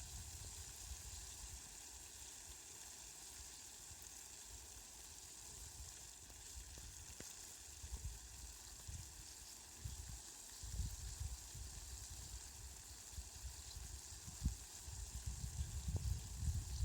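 Rain falling steadily as an even hiss. Irregular low rumbles come and go under it and grow louder and more frequent near the end.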